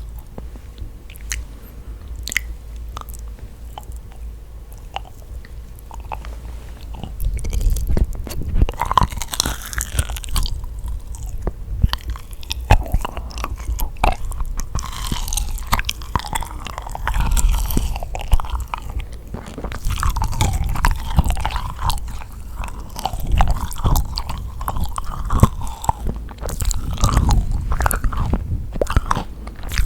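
Close-miked biting and chewing of yakgwa, a sticky honey-soaked Korean fried cookie: wet, sticky mouth sounds with occasional crisp bites. Soft and sparse at first, louder and busier from about seven seconds in.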